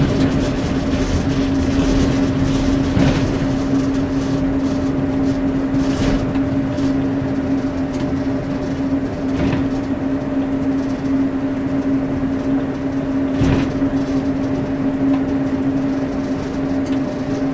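Cab interior of a class 141 Pacer diesel railcar: a steady drone from the diesel engine with a constant hum, and a few short knocks every few seconds.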